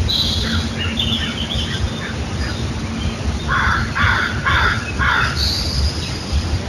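Birds calling: four loud calls about half a second apart a little past the middle, with fainter, higher chirps before them, over a steady low rumble.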